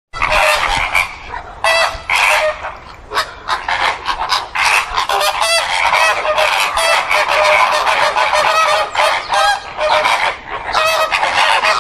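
A flock of flamingos calling: many short, nasal calls overlapping in a continuous chorus.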